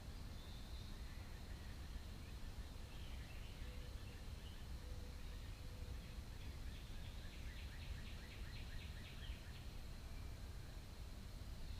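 Background outdoor noise with a steady low rumble and a faint steady high tone, over which a bird gives a rapid series of short chirps, about five a second, for around three seconds midway.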